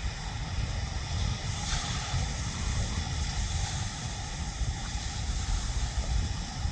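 Wind buffeting the microphone, a gusty low rumble over a steady rushing hiss like distant surf.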